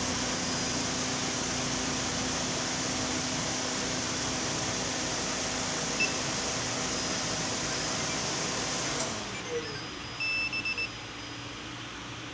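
Nissan Clipper Wagon kei van's small engine idling steadily under the remote engine starter, with one short electronic beep about halfway through. Near the end the engine shuts off, its hum sliding down, and a quick series of about four beeps follows.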